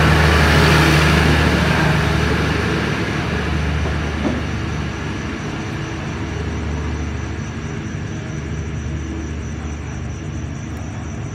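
An air-conditioned sleeper train leaving the station, its cars rolling past and then pulling away. The rumble and low hum are loudest at first and fade steadily as the train recedes.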